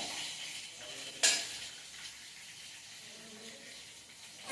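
A steady hiss with one short, sharp parrot squawk about a second in.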